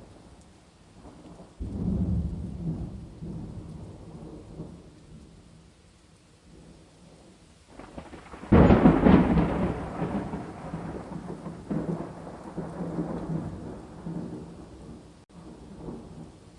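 Thunder over steady rain. A rumble starts about a second and a half in and fades over a few seconds. About eight and a half seconds in comes a louder, sharper clap that rolls on and dies away slowly.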